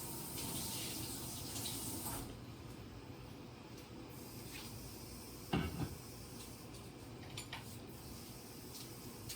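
Water running from a tap in a steady hiss that shuts off about two seconds in. A short voice-like sound comes about halfway through, and a few faint clicks.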